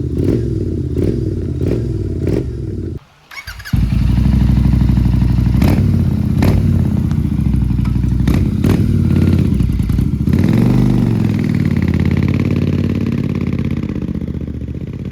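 Royal Enfield Continental GT 650's parallel-twin engine running loud through a new aftermarket exhaust with the dB killers removed, revved, with sharp cracks now and then. The sound cuts out briefly about three seconds in, then comes back.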